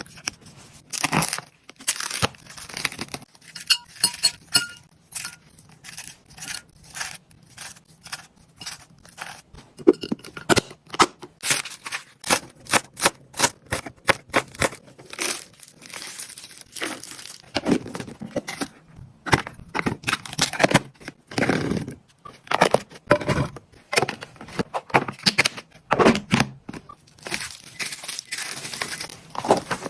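Plastic packaging and food storage containers being handled: crinkling, rustling and a rapid, irregular run of clicks and taps as things are packed into a fridge.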